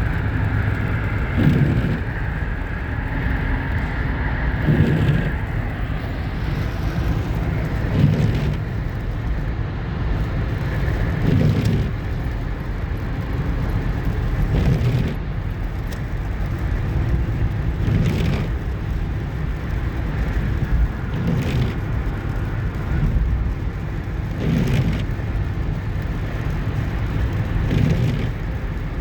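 Road noise inside a moving vehicle on a highway: a steady tyre and engine rumble, with a brief whooshing thump about every three seconds.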